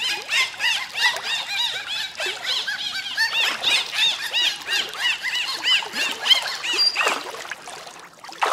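Dolphins squealing: a rapid stream of many short overlapping chirps, each rising then falling in pitch, several a second, cutting off abruptly near the end.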